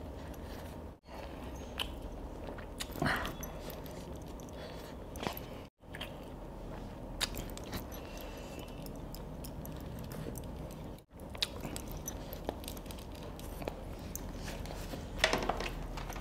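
Close-up chewing of a person eating chicken biryani by hand, with scattered small clicks and crunches over a steady low background hiss and a few louder clicks near the end. The sound drops out briefly three times: about a second in, near the middle, and about two-thirds through.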